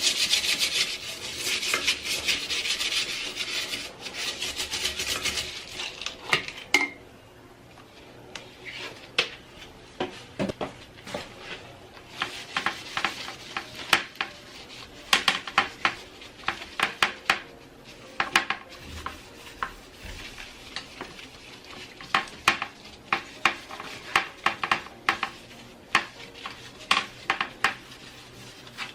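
Brisk scrubbing and rubbing of a hard surface for about six seconds, then many light, irregular clinks and knocks of kitchenware and household items being handled and set down.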